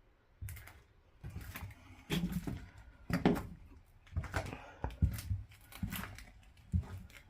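Irregular footsteps and knocks of a person moving about a wrecked train carriage floor strewn with brick debris, starting about half a second in.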